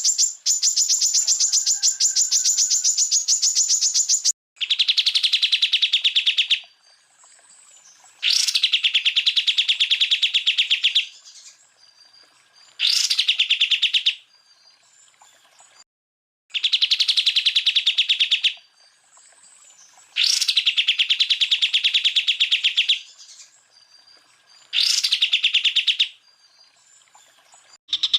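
Green leafbird (cucak ijo) song: loud, very rapid rattling trills in phrases of one to three seconds, separated by short pauses, with quick sweeping notes between them; the sequence repeats as a loop.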